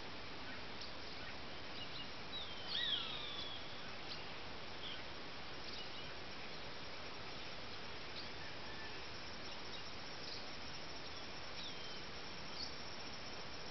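Birds calling now and then over a steady background hiss. The loudest call comes about three seconds in: a couple of quick falling whistled notes.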